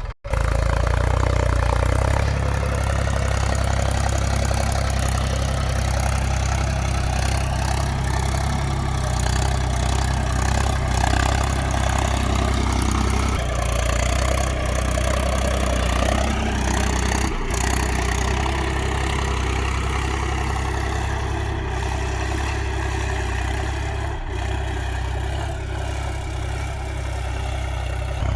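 Diesel tractor engine of a Mahindra 275 DI TU XP Plus running steadily at a low, even speed, with a few brief clicks.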